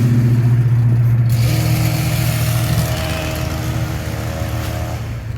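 A vehicle engine running steadily with a low, even hum, slowly fading.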